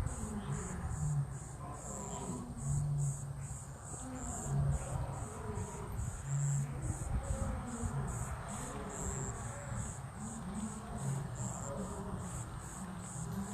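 Crickets chirping in a high, steady rhythm of about three pulses a second, over a low rumble.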